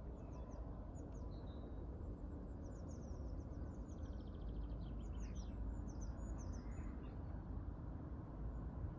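Small songbirds chirping and singing in short high notes, with a rapid trill about halfway through, over a steady low background rumble.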